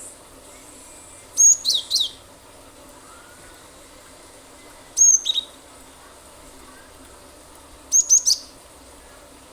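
Cinereous tit (gelatik batu) calling in three short bursts a few seconds apart, each a quick run of sharp, high notes falling in pitch, over a steady faint hiss.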